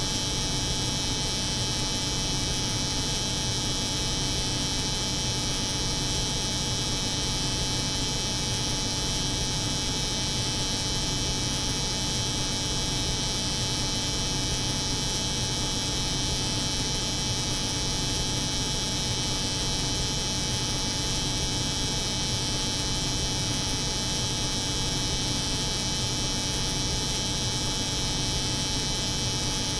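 Steady layered drone of an electric hair clipper buzzing over the hum of a cold room's refrigeration unit, with a low hum under a bright hiss, unchanging throughout.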